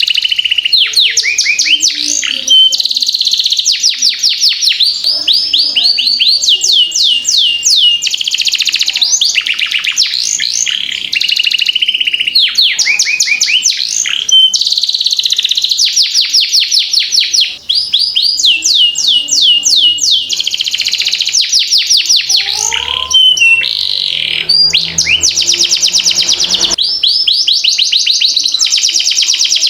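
Domestic canary singing without pause in long rolling trills: fast runs of repeated high notes, each run switching to a new note pattern every second or two.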